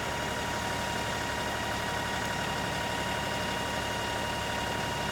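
LS XR3135 compact tractor's diesel engine running steadily, with a steady whine on top of the low engine sound.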